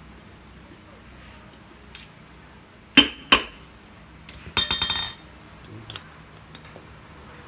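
Small metal parts clinking together: two sharp ringing clinks about three seconds in, then a short rapid rattle of metal pieces a second later.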